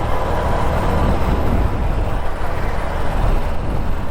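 Motorcycle riding along at road speed: a steady rumble of engine and road noise, with wind buffeting the microphone.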